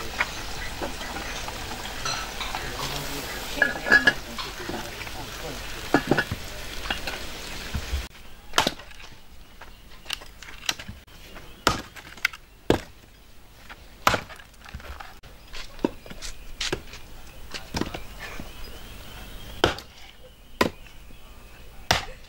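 Kitchen food-preparation sounds. For the first eight seconds there is a steady rushing noise with a few clinks. After an abrupt change it gives way to sharp, separate knocks and clinks of kitchen utensils, roughly one a second.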